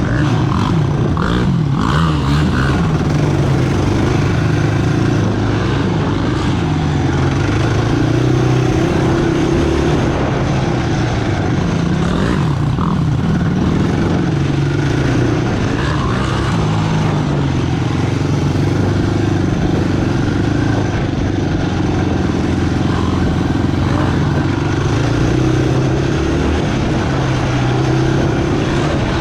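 Sport quad's single-cylinder engine running at a steady, moderate pace, its pitch rising and falling gently with the throttle.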